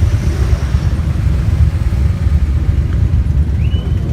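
Steady low rumble of many motorcycle engines running together in a large group ride.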